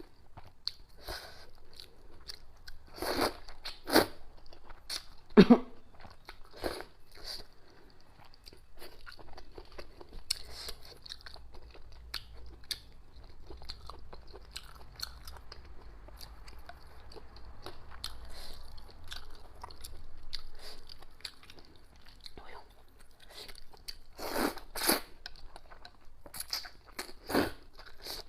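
Close-miked eating sounds: a person chewing and biting through noodles and pig intestines, with many small wet mouth clicks and a few louder bites, the loudest a few seconds in and near the end.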